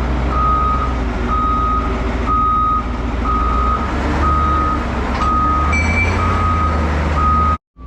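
Diesel forklift engine running steadily while its back-up alarm beeps about once a second.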